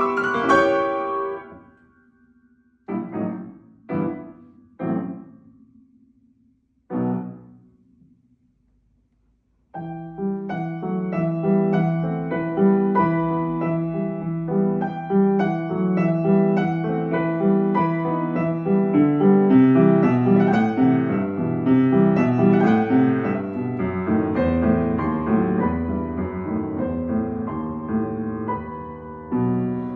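Piano playing: a phrase dies away, then four separate chords ring out with pauses between them, followed by a short silence. From about ten seconds in, continuous figuration with many quick repeated notes takes over.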